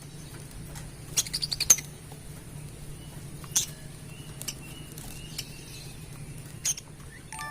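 Pet birds making short high chirps and clicks, with a quick run of about half a dozen a second in and single ones spaced through the rest. Chime-like music starts right at the end.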